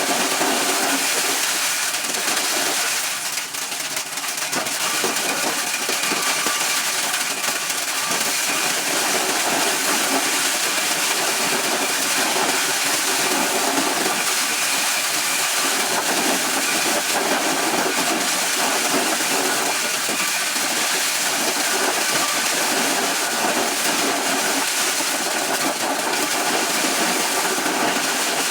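Corn shelling machine running steadily: a constant loud hiss with a faint whine.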